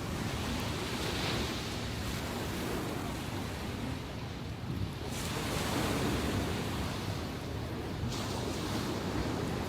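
Ocean waves breaking and washing on the shore, a continuous surf noise that swells with each wave about 1 s, 5 s and 8 s in, with a low rumble of wind on the microphone.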